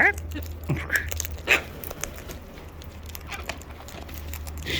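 Birds feeding from a bucket: scattered short crunches, pecks and scrapes as they rummage in it and chew at seed and the bucket.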